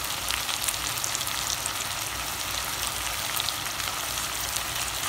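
Onion, potato, tomato and green chilli masala frying in oil in a pan, with a heap of dried prawns just added on top: a steady sizzle with scattered small crackles.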